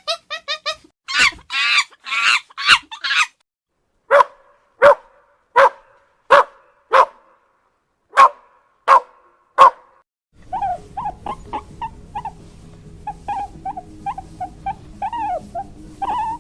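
A dog barking: eight short, evenly spaced barks, a little under a second apart. They follow a few seconds of rapid high squeaky calls. From about ten seconds in, a busier stretch of short higher calls sits over a steady low rumble.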